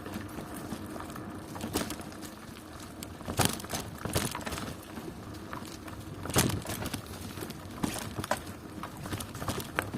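Bicycle rolling over a rough country road: a steady rumble of tyres and frame, with a few sharp rattling knocks as it jolts over bumps, the loudest about three and a half seconds in and again past six seconds.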